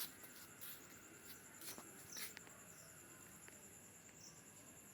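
Faint, steady, high-pitched insect trill, pulsing rapidly without a break, with a few soft clicks in the first couple of seconds.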